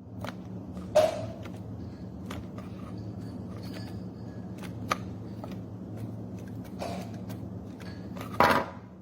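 Scattered clicks and knocks of small hard objects being handled, the loudest near the end, over a steady low hum.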